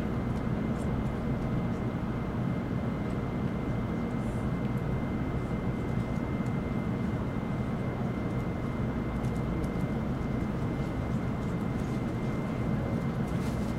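Steady running noise heard inside an N700 series Shinkansen car: an even low rumble and rush from the moving train, with a thin constant whine above it.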